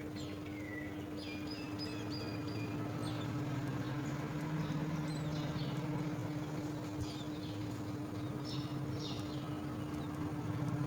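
Birds chirping in short, scattered high calls, over a steady low hum.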